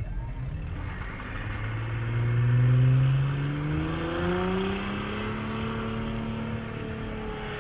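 Car engine revving up, its pitch rising over about three seconds and then held steady at high revs, as the white-striped sedan ahead does a burnout, laying a thick cloud of tyre smoke.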